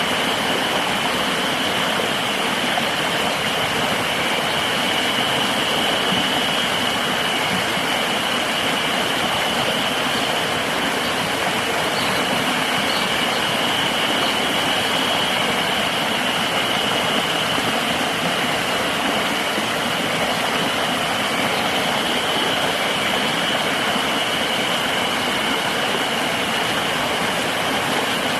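Steady rushing of river water, with a continuous high-pitched insect drone over it.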